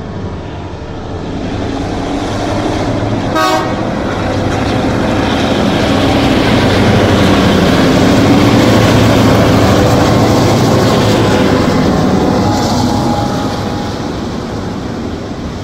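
Grain train hauled by three diesel locomotives passing close by: a short horn blast about three seconds in, then engine noise building to its loudest as the locomotives go past, easing into the rolling rumble of the grain wagons.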